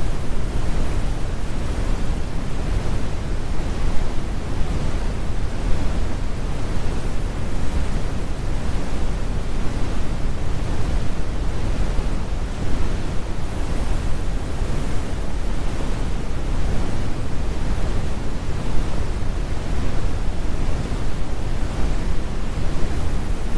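Steady synthetic brown noise: an even, deep rumble strongest in the low end with the highest frequencies rolled off.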